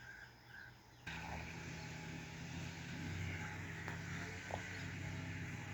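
A car's engine and road noise, a steady low hum with hiss above it, starting abruptly about a second in after a moment of faint insect and bird chirps.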